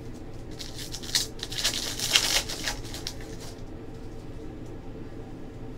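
Basketball trading cards being handled and slid against each other: a rustle with light clicks for about three seconds, then it dies down to a steady low hum.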